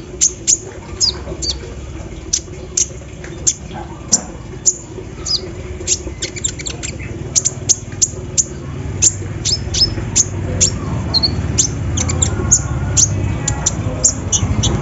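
Kolibri ninja sunbird singing a rapid, irregular string of short, sharp, high chirps that each drop quickly in pitch. A low hum grows louder in the last few seconds.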